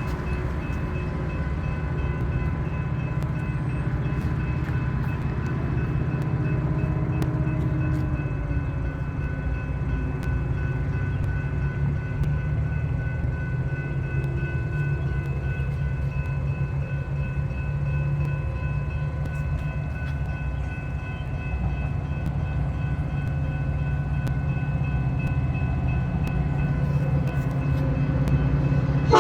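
Diesel train running with a steady low rumble and a thin, steady high whine over it.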